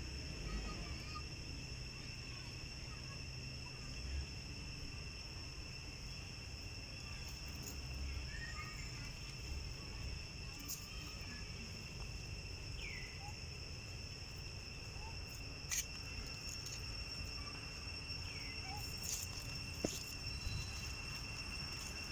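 Insects droning steadily in a constant, even high-pitched tone, with a few faint chirps and sharp clicks scattered through it.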